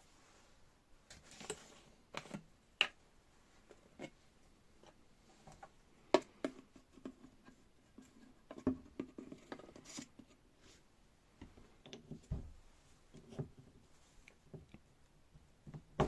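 Irregular light clicks, taps and short scrapes of small metal parts being handled and fitted while a hydraulic jack is put back together, with a sharper click about six seconds in.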